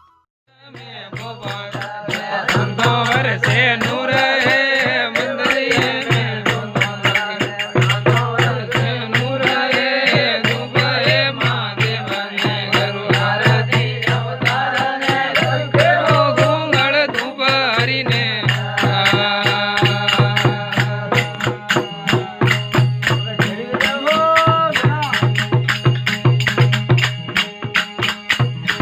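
Rajasthani folk bhajan music: a melody over fast, dense rattling hand percussion and a pulsing low note. It starts about half a second in, after a short break.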